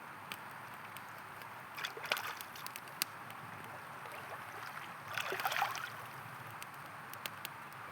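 River water flowing steadily, with campfire crackles and pops scattered over it. The water noise swells louder about two seconds in and again about five seconds in.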